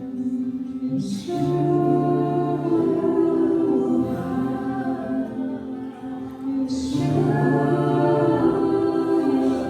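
Live worship music: voices singing long held notes over sustained accompaniment, swelling fuller about a second in and again near the end.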